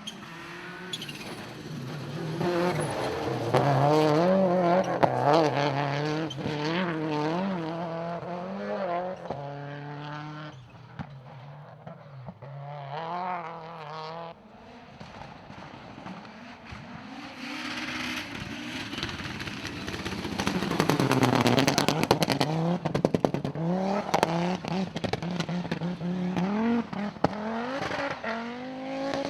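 Rally cars driven hard on a stage: one engine revs up and down through gear changes and passes, and about 18 seconds in a second car comes through loud, its exhaust crackling, loudest about 21 seconds in.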